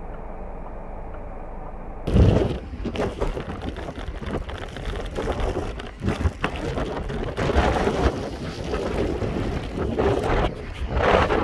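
Blizzard wind gusting hard against the microphone, loud and uneven. It cuts in suddenly about two seconds in, after a steady, muffled low rumble.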